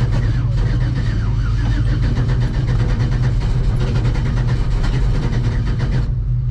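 A truck engine idling with a steady, deep drone.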